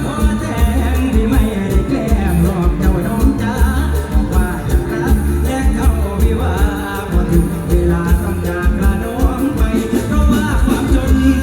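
Live mor lam band music: a sung melody over a fast, heavy bass and drum beat.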